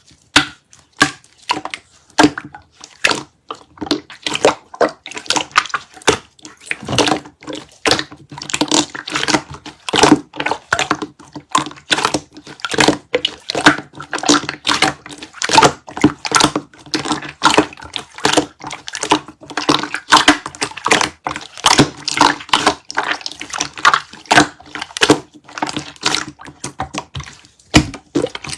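Slime being squished, pressed and stretched by hand, giving dense, irregular crackling pops and clicks, several a second.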